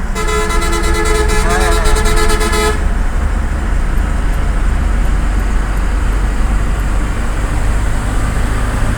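A vehicle horn sounds once for about two and a half seconds, a chord of steady tones, over the steady engine and road rumble of the moving truck, which continues after the horn stops.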